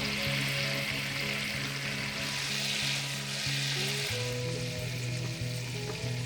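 Food sizzling as it fries in a hot pan, easing off about four seconds in, over background music.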